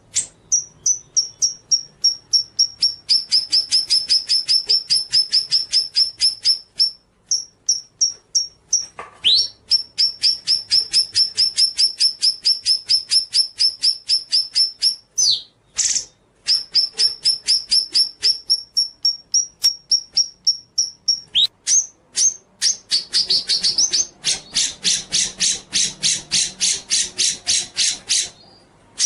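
A songbird singing long runs of rapid, evenly repeated high notes, about six a second, broken by short upward-sweeping whistled calls. In the last few seconds the runs turn into a denser, harsher trill.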